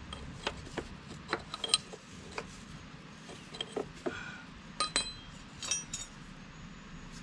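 Irregular metallic clicks and clinks of spanners and hose fittings being handled, with a few brief ringing tones about five seconds in.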